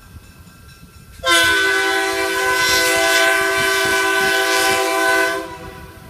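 Locomotive air horn blowing one long chord of several notes at once. It starts sharply about a second in, holds steady for about four seconds, then stops.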